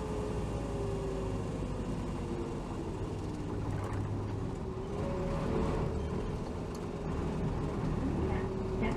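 Hino Rainbow HR city bus (BDG-HR7JPBE) running, heard from inside the cabin. A steady engine and drivetrain drone with a whining note that sinks over the first few seconds, then rises and grows louder from about five seconds in.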